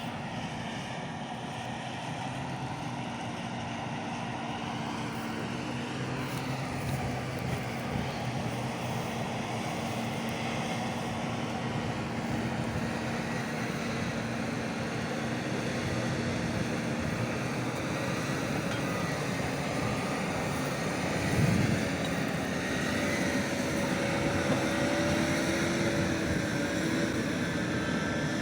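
Large diesel engine of a New Holland farm machine running under steady load, growing gradually louder, with a brief low thud about three-quarters of the way through and its pitch rising slightly near the end.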